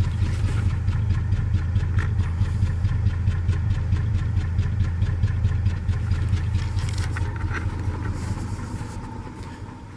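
A vehicle engine running with a steady, low, pulsing hum, fading away over the last couple of seconds.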